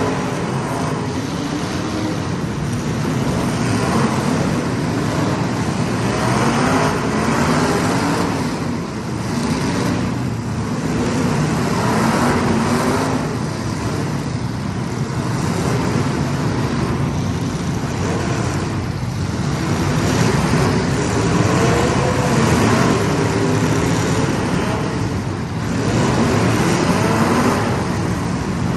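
Several small racing engines running together in a race, their pitch rising and falling in waves as they pull out of the turns and back off into them.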